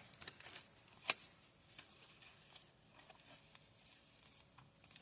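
Faint rustling of paper pages and card tags being handled and turned, with one sharper tap or click about a second in.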